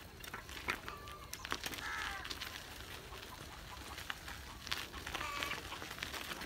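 Birds calling, three short calls, with scattered clicks and taps.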